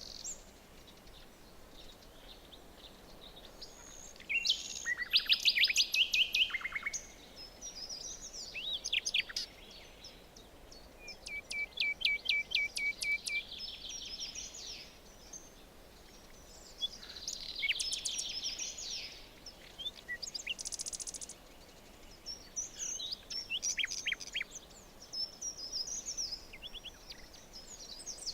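Several songbirds singing in a forest, in bouts of rapid trills and quick sweeping chirps every few seconds, over a faint steady background hiss.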